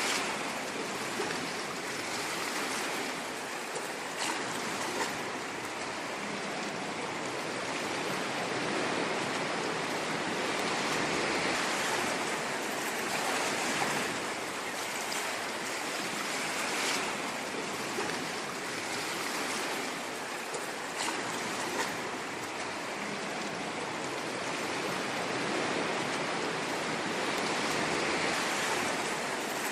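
Ocean surf washing on a shore: a continuous rushing wash that swells and eases slowly every several seconds, with a few brief crackles.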